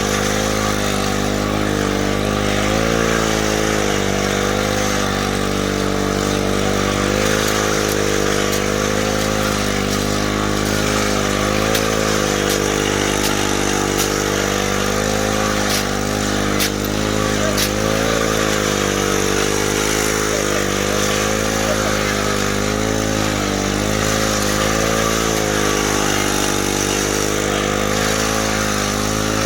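A small engine runs steadily, its pitch wavering slightly as the load shifts. Over it there is a continuous hiss and a few sharp clicks.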